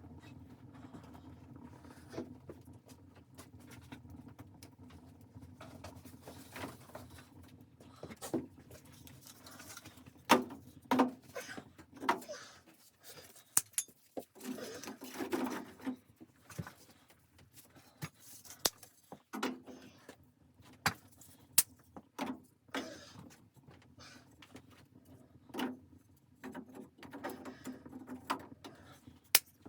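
Irregular clicks, knocks and rustling, sparse at first and much busier from about ten seconds in.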